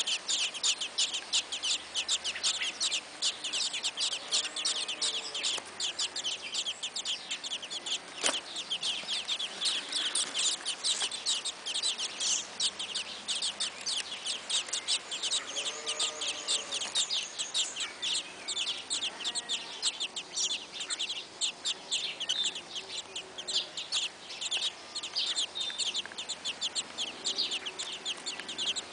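Thrush nestlings in the nest giving a continuous stream of rapid, high-pitched cheeps.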